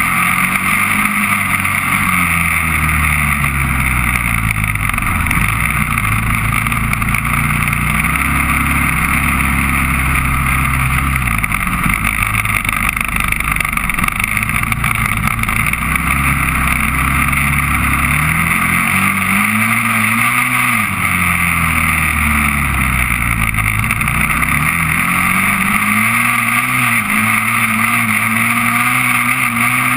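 Honda TRX400EX quad's single-cylinder four-stroke engine being ridden hard, its note climbing and dropping in pitch over and over, over a steady rushing noise.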